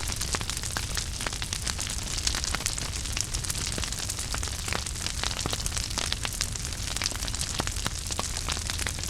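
Wood fire burning in a fireplace: a steady hiss and low rumble with frequent sharp, irregular crackles and pops.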